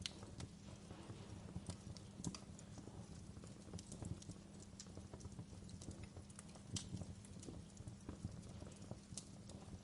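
Wood fire burning in a fireplace, crackling with irregular sharp pops of varying loudness over a low steady rumble.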